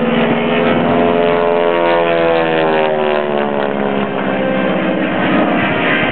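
North American Harvard's Pratt & Whitney R-1340 radial engine and propeller droning loudly as the aircraft makes a pass, its pitch falling as it goes by.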